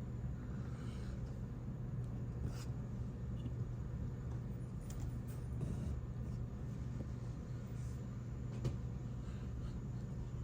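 A steady low room hum with a few faint, brief clicks or taps, one about two and a half seconds in and another near the end.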